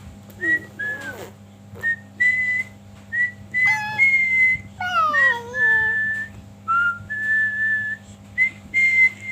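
Pet bird whistling a tune in a string of short, clear notes on nearly one pitch, with a few sliding down-glides midway.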